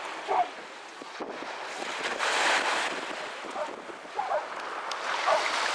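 Wind buffeting the microphone, swelling in a gust about two seconds in, with a few short high calls breaking through.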